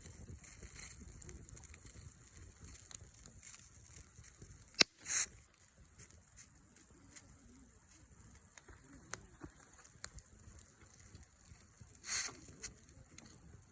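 Wood fire crackling quietly with scattered small clicks, a sharp pop about five seconds in, and two brief rushes of noise, one right after the pop and one near the end.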